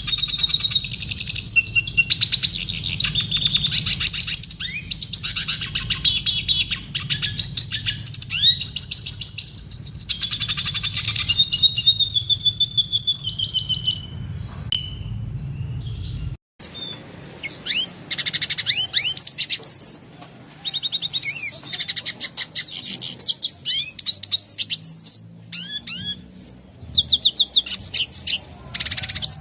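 Red siskin singing: a fast, continuous run of twittering chirps, trills and quick rising notes. About sixteen seconds in the recording breaks off abruptly, then the song resumes in shorter phrases without the low hum that lay under the first part.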